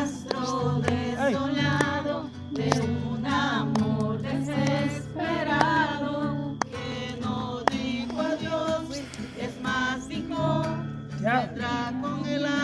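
A song: a voice singing a melody over sustained instrumental accompaniment.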